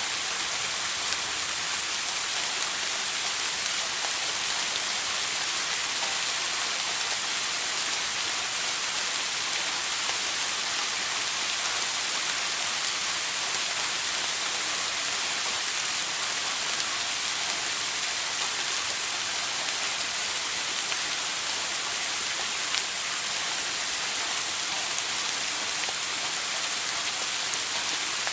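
Shower water spraying and splashing down in a steady hiss, with no change throughout.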